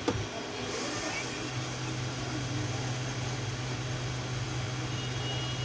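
Hot air rework station blowing steadily, a low hum under a hiss of air, reflowing a power IC onto a phone mainboard. A short click right at the start.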